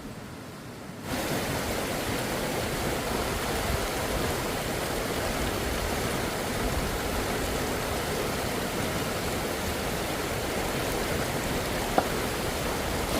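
Steady rushing of running water that starts abruptly about a second in, with a single sharp click near the end.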